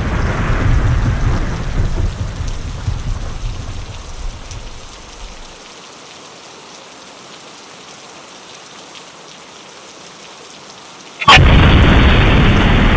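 Thunderstorm: a deep thunder rumble fades away over the first five seconds, leaving steady rain. Then a sudden sharp thunderclap about eleven seconds in breaks into loud rumbling.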